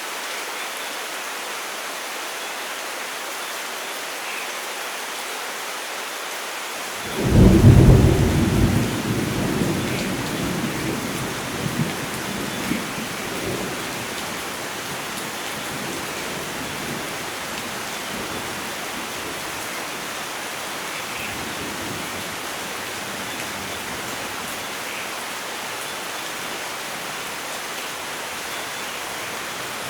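Steady rain falling, with a clap of thunder breaking out about seven seconds in and rumbling away over the next several seconds.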